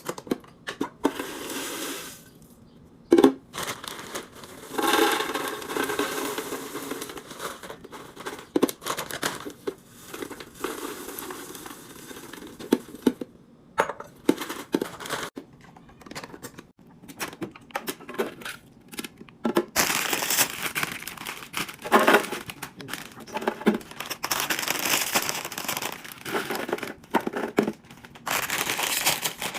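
Plastic packaging crinkling and rustling in irregular stretches, with scattered sharp clicks and knocks as packaged snacks and containers are handled and set in place.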